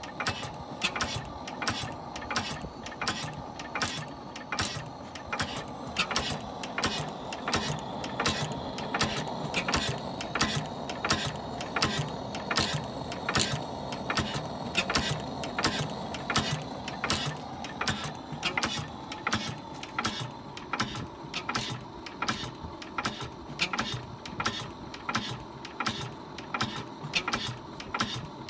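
Early Blackstone 1.5 hp constant-flame oil engine running steadily, with sharp regular clicks about twice a second over its continuous running sound.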